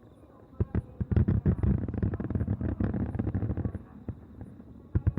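Aerial fireworks bursting in a dense run of rapid crackles and pops. The crackling starts about half a second in, eases off around four seconds, and starts again near the end.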